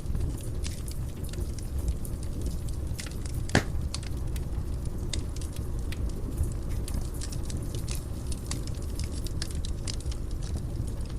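Wood fire burning in a fireplace: a steady low rumble of the flames with frequent sharp crackles and pops, one louder pop about three and a half seconds in.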